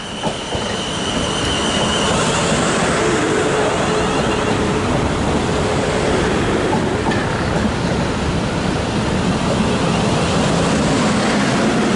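South Western Railway Class 450 Desiro electric multiple unit pulling into the platform and braking. A steady rushing noise builds over the first second or so, with a faint high tone early on and a mid-pitched whine for a few seconds in the middle.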